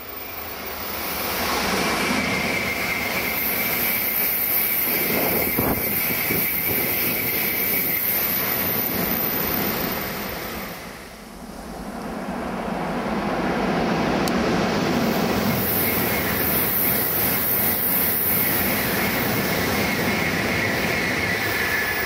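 Two Tokaido Shinkansen high-speed trains passing at speed one after the other, each a long steady rush of wheel and air noise with a high whistle over it. The sound builds over the first couple of seconds, dips briefly about eleven seconds in between the two trains, then builds again.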